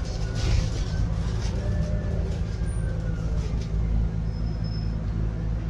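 Scania N280UD biogas double-decker bus heard from inside the cabin: the gas engine and driveline run with a steady low drone, and a faint whine rises and falls about two seconds in.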